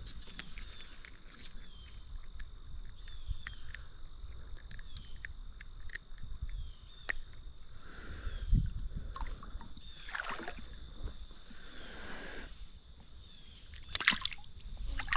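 Creek ambience: a steady high insect buzz throughout, with water sloshing and splashing a few times in the second half.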